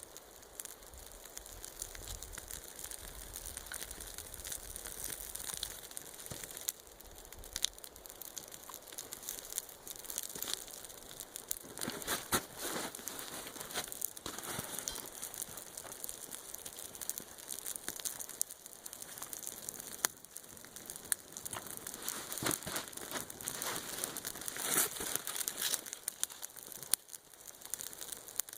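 A campfire crackling and popping, with irregular crinkling and rustling of things being handled close by.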